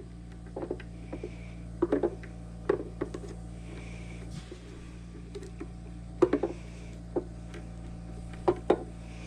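Small metal clicks and taps, several scattered and irregular, as snap ring pliers work a snap ring onto a steel guide pin; a steady low hum runs underneath.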